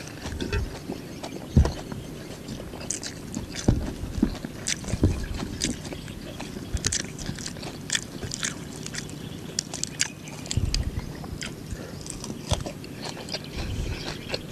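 Close-miked eating sounds: a man chewing a Khmer crispy crepe (banh chheav) wrapped in fresh herb leaves, with wet mouth smacks and many small crisp clicks scattered throughout, along with the rustle of leaves being picked and folded.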